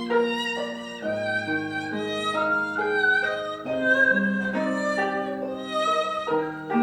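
Haegeum, the Korean two-string fiddle, playing a bowed melody of held, sliding notes over a plucked gayageum accompaniment.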